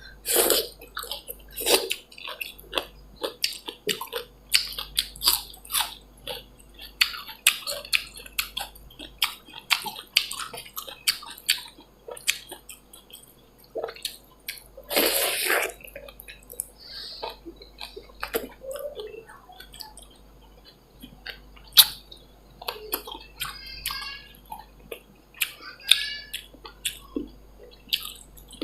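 Close-miked eating of dal bhat and chicken curry: wet chewing and lip smacking in many short clicks, with a longer wet slurp about halfway through.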